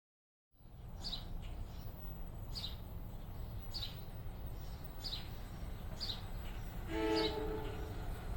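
A bird repeats a short, high, falling chirp about once a second over a low, steady rumble. Near the end comes one brief toot of a train horn.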